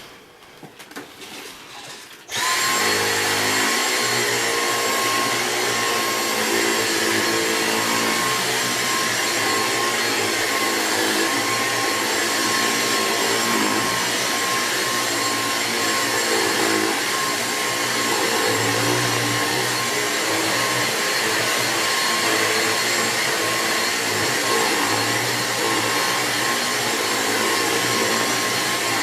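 Dyson V6 Absolute cordless stick vacuum switched on about two seconds in, then running steadily with a high motor whine over the rush of air as it vacuums a mattress.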